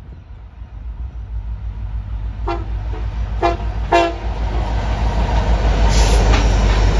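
CN freight diesel locomotives approaching, their engine rumble growing steadily louder, and the lead locomotive's horn sounds three short taps between about two and a half and four seconds in. Toward the end the locomotives pass close with a louder clatter of wheels on rail.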